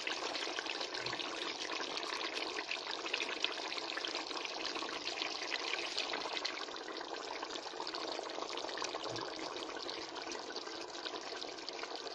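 Thick beef curry cooking in the pan over the heat, a steady fine sizzle and crackle.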